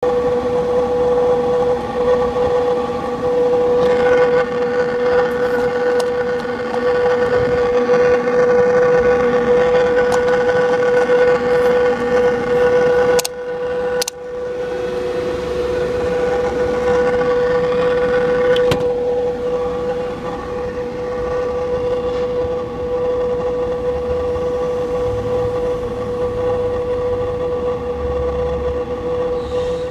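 A steady, unchanging whine from the front area of a 2000 Porsche Boxster S, whose cause is not known. It is briefly broken by two sharp clicks and a drop in level about halfway through.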